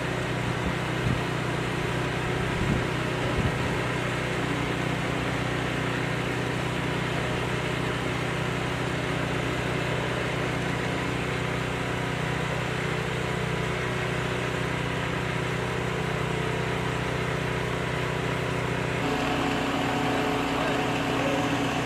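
An engine running steadily at a constant speed, with a few short knocks in the first few seconds. Its tone shifts a little near the end.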